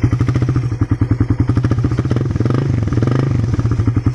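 Suzuki Raider R150 motorcycle engine idling with an even, fast exhaust beat, a little fuller from about halfway through. It runs on freshly changed Shell Advance 10W-40 oil.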